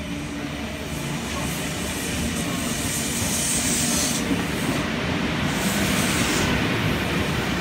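Stainless-steel double-deck electric suburban train running in along the platform, its rumble growing louder as it approaches, with a high hiss about three seconds in.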